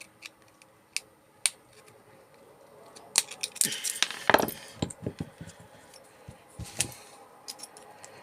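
Small metal parts and a hand tool clinking and scraping as parts are worked off a dismantled microwave. There are a few sharp clicks in the first second and a half, then a busier run of clinks, scrapes and clatter from about three seconds in.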